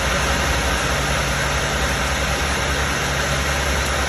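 Newly installed cab HVAC blower motor of a 2020 Volvo VNL 860 running, a steady rush of air from the fan that is blowing well.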